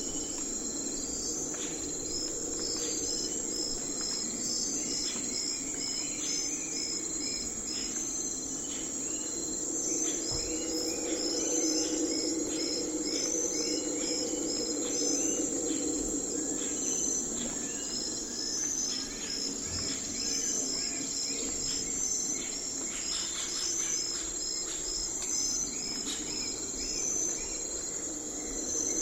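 Nighttime forest ambience: crickets and other insects chirping steadily, with a high continuous drone and evenly repeated chirp trains. Scattered short calls are heard over a low steady hum.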